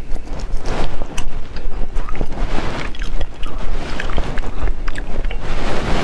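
Close-miked chewing and wet mouth smacking while eating raw seafood, many quick clicks and smacks over a steady low rumble.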